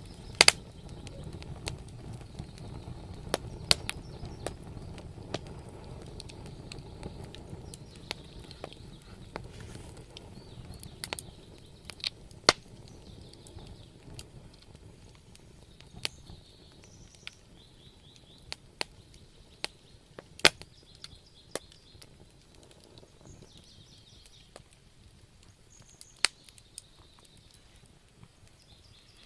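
Wood fire burning in a fireplace, crackling with irregular sharp pops and snaps, a dozen or so loud ones, over a low rumble of flames that fades after the first ten seconds or so.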